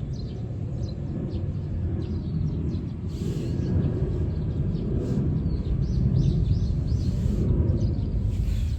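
Steady low outdoor rumble with small birds chirping repeatedly over it.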